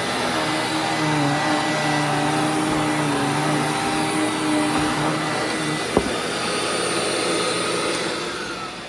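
Hoover WindTunnel WidePath upright vacuum cleaner running steadily over a rug, its motor and brush roll turning smoothly on a newly replaced brush-roller bearing. A single sharp click comes about six seconds in, and the motor sound falls away near the end.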